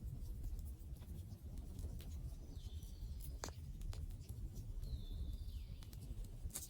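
Wood fire burning, with a low rumble and irregular sharp crackles and pops, one louder pop midway and another near the end. Two thin high whistles sound over it, each holding and then dropping, in the middle and later on.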